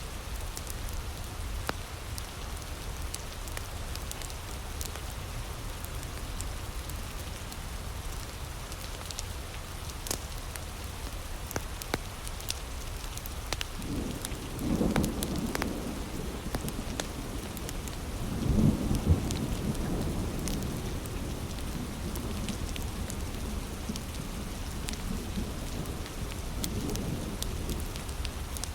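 Heavy rain falling steadily, with a wood fire crackling in sharp pops throughout. Low rolls of thunder come about halfway through and again a few seconds later, with a fainter rumble near the end.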